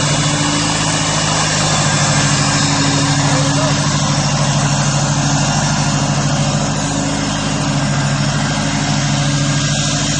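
Craftsman garden tractor's 19.5 hp Kohler Magnum twin-cylinder engine running steadily while mowing, an even low engine note that holds without revving up or down.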